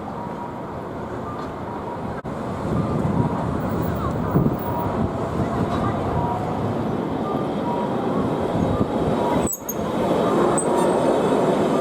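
Fukui Railway streetcar running on street track amid road traffic noise, with a steady whine that grows stronger in the last couple of seconds. The sound drops out briefly twice, about 2 s and 9.5 s in.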